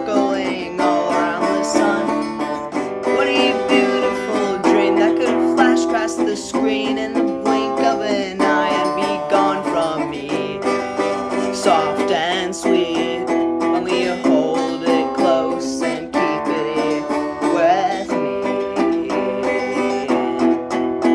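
Resonator guitar played as a solo instrumental, plucked notes and chords carrying a melody with a bright, twangy, banjo-like tone.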